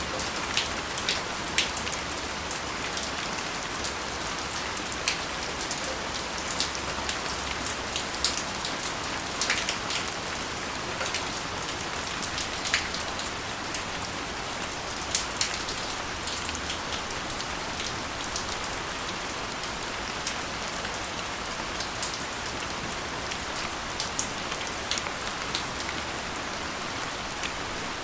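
Steady rain, an even hiss with many separate drops ticking sharply on a surface close by.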